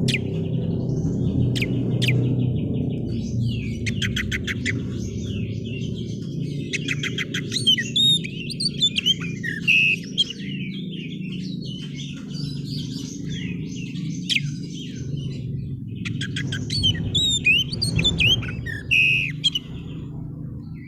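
Oriental magpie-robin (kacer) singing hard: a long run of rapid rattling trills and looping whistled notes in quick varied phrases, over a steady low background hum.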